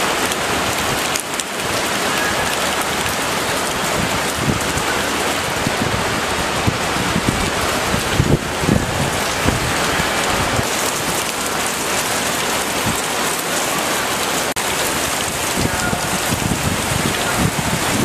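Heavy rain pouring down steadily, with scattered dull thumps now and then.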